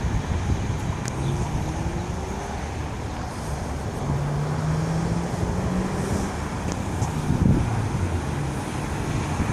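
Infiniti G35 coupe's V6 running through a Borla exhaust with the resonators deleted, test pipes and Megan headers: a steady low exhaust note, its pitch holding and rising only slightly, as if cruising at light throttle.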